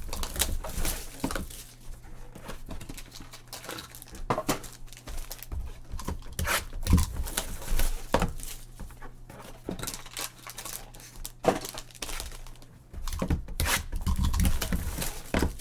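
Trading card box packaging being torn open and handled: crinkling and tearing of wrapper, with irregular clicks and knocks.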